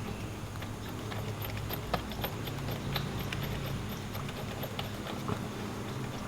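Light, irregular clicks and ticks of a new BR8ES spark plug being threaded by hand into a Yamaha YZ125's cylinder head, over a steady low hum.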